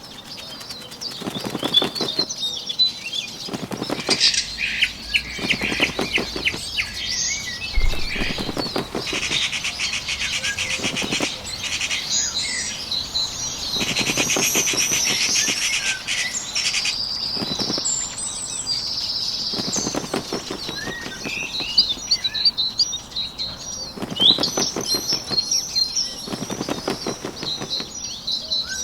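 Bird wings flapping in repeated fluttering bursts every second or two, over small birds chirping and trilling.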